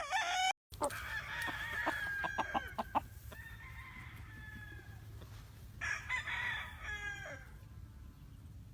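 Gamefowl roosters crowing in several overlapping bouts, one after another; the last crow, near the end, falls in pitch. A few sharp clicks come in the first few seconds, over a steady low hum.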